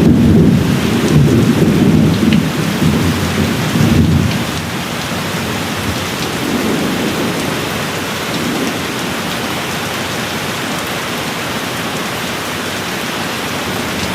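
Steady rain hiss with a low rolling thunder rumble that fades out about four seconds in, leaving the rain alone.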